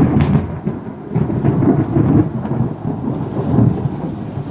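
Thunder rumbling and rolling after a lightning flash, the low rumble swelling and fading, over the steady sound of rain.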